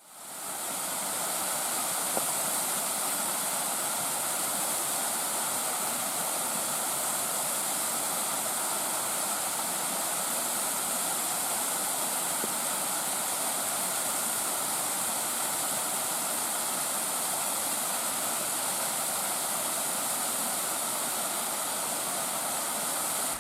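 Small mountain stream cascades rushing steadily over rock, an even, unbroken rush that fades in over the first second.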